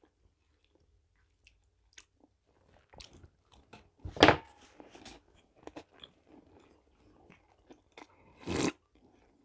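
Close-miked chewing of a dunked biscuit, with faint wet mouth clicks, a loud thump about four seconds in, and a slurping sip from a glass mug about eight and a half seconds in.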